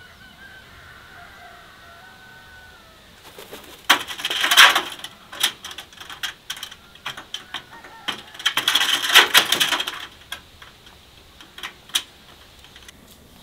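Harsh, rattling bird chatter in two loud bursts, about four and nine seconds in, with sharp clicks scattered between and after them, over faint thin birdsong at the start.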